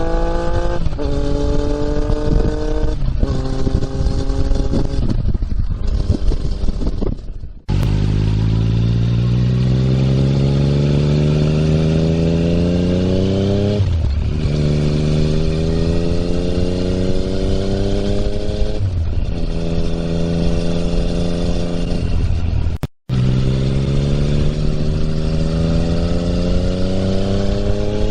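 Yamaha MT-09's inline-triple engine through an Akrapovič exhaust, accelerating up through the gears while riding. The engine note climbs steadily and drops sharply at each upshift, about five times, and the sound breaks off abruptly twice.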